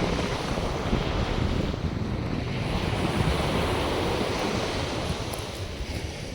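North Sea surf breaking and washing up the beach, a steady rush that swells and eases, with wind buffeting the microphone.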